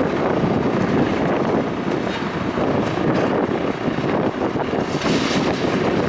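Strong wind blowing across the microphone: a loud, steady rushing noise without any distinct events.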